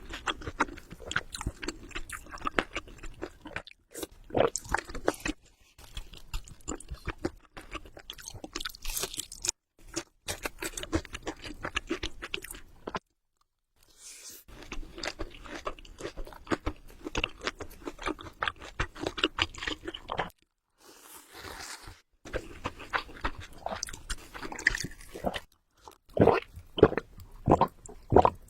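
Close-miked chewing of spicy ramen: a dense run of small crunching and smacking mouth sounds, broken by a few short pauses, with louder, more spaced-out bites near the end.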